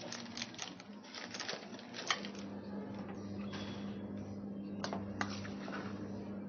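Spoon clicking and scraping against a mixing bowl while stirring maida, powdered sugar, oil and salt together: a quick run of clicks in the first couple of seconds, then two more clicks near the end.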